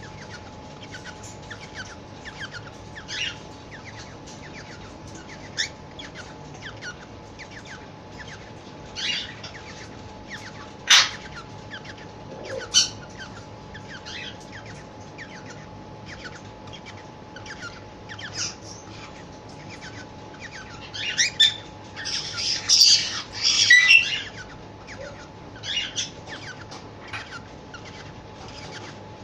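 Cockatiel chirping and calling: frequent short chirps, a couple of louder single calls midway, and a run of loud squawky calls about three-quarters through.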